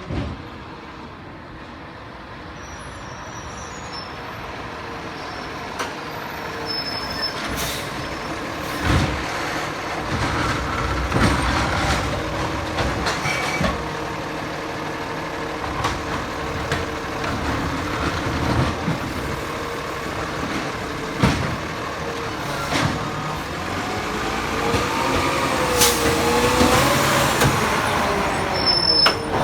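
Diesel McNeilus Zero Radius automated side-loader garbage truck running and growing louder, with scattered clanks and knocks and a wavering whine near the end.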